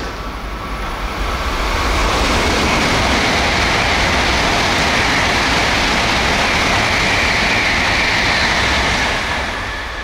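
Tokaido Shinkansen train running through the station at speed: a loud rushing roar of wheels and air that builds over about two seconds, holds steady, then dies away near the end.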